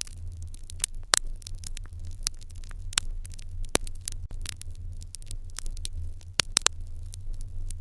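Fire in an irori hearth crackling, with irregular sharp pops several times a second over a low, steady rumble.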